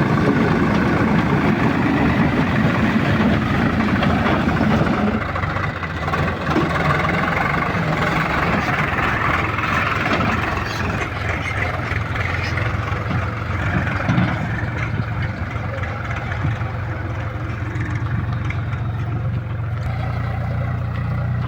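Heavy diesel engine running steadily, its note changing about five seconds in and then settling into a lower, even hum.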